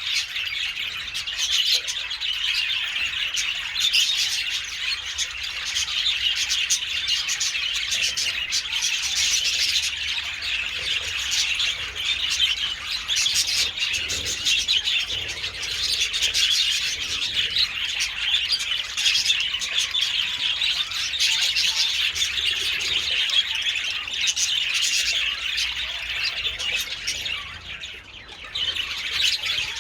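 A colony of budgerigars chattering, many birds chirping at once in a dense, continuous stream, with a brief lull near the end.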